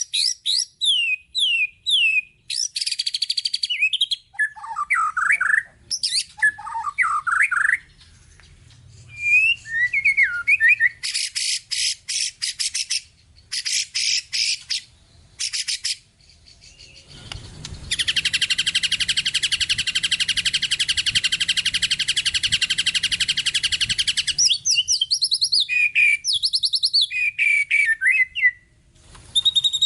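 White-rumped shama (murai batu) singing a long, varied song full of mixed-in fill-in phrases. It runs through quick down-sliding whistles, short rising notes and fast rattling trills, with one long, dense trill of about six seconds in the second half.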